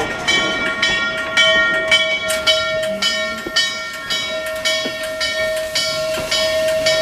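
Steam locomotive bell ringing steadily, struck about twice a second, each stroke ringing on into the next.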